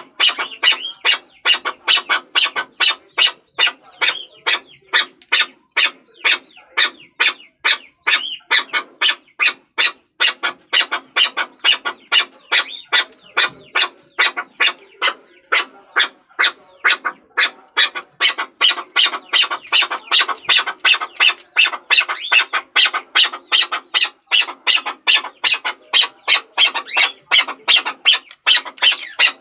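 Chukar partridge calling: a steady run of short, harsh chucking notes, about three a second, without a break.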